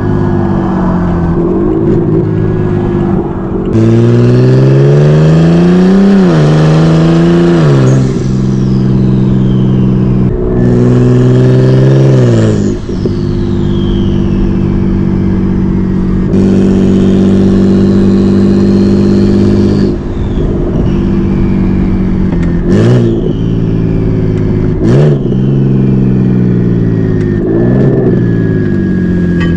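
BMW 335i's N54 inline-six with a single-turbo conversion and hood-exit downpipe, revving up hard in rising pulls early on, then running at steady revs. In the second half it gives several quick, sharp rev blips, with a high whistle falling away after the pulls.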